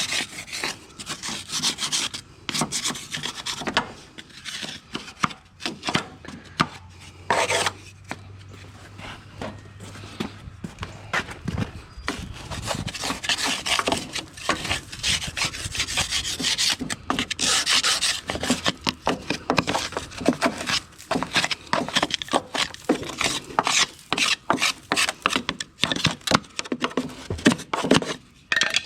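A piece of wood scraping caked wet grass clippings off a lawnmower deck, in quick, irregular rasping strokes.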